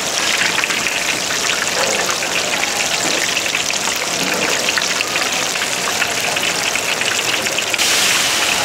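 Food frying in hot oil: a steady sizzle full of fine crackles, which gets louder near the end.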